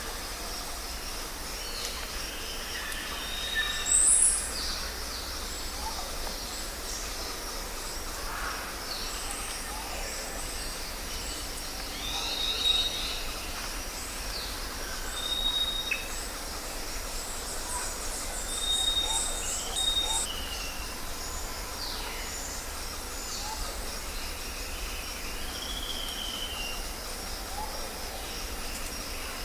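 Several birds chirping and whistling in short, scattered calls over a steady low background hum.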